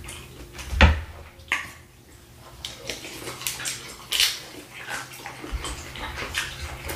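Close-miked wet chewing and lip-smacking of people eating butter-sauce shrimp and fish with their fingers, many small clicks and smacks, with a dull thump about a second in.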